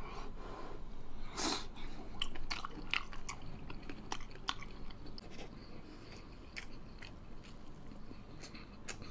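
Chewing a mouthful of soft braised beef hoof tendon: a string of short wet smacks and clicks, thinning out after about five seconds.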